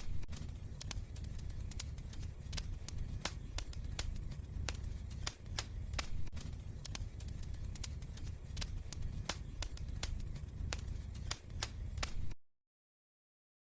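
Wood fire burning in a fireplace: a steady low rumble with frequent sharp, irregular crackles and pops. The sound cuts off abruptly to complete silence near the end.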